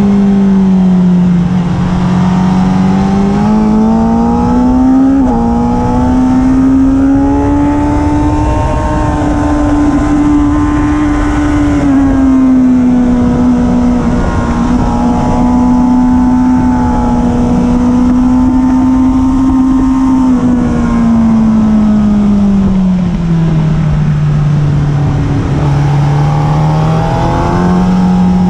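Sport motorcycle's engine pulling at high revs on track, heard from an onboard camera. The engine note climbs about four to five seconds in, holds high, drops off past the twenty-second mark and climbs again near the end, over a steady rush of wind noise.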